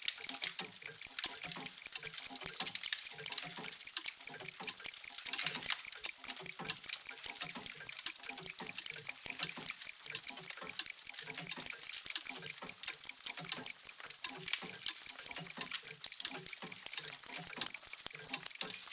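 Many mechanical clocks ticking at once: a dense, uneven mass of overlapping sharp ticks with softer, lower tocks mixed in.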